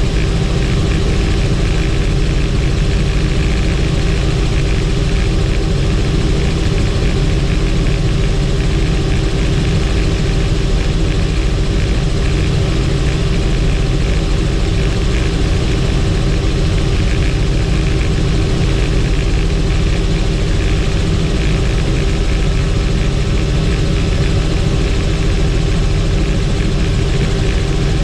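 Helicopter in flight, its rotor and turbine engine running as a loud, steady drone with a constant low rumble and a steady hum.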